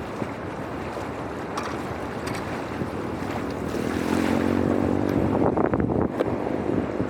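Water rushing steadily through a drainage opening, a loud continuous noisy rush. A brief pitched hum comes in about halfway through, and a few sharp knocks or splashes follow near the end.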